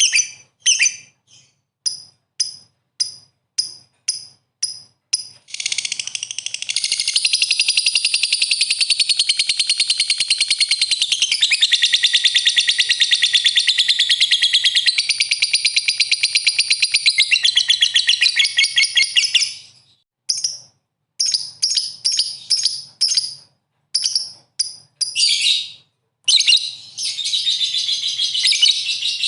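Lovebird in full song: a string of short sharp chirps, two or three a second, breaking into a long unbroken rapid chattering trill that runs for about fourteen seconds. Then more chirps, and a second chattering trill near the end.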